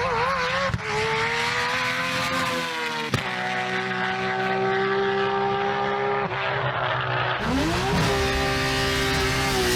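Big-turbo Nissan Skyline R32 engine running hard at high revs. Its pitch climbs, breaks sharply about three seconds in and holds steady, then drops away and climbs again near the end.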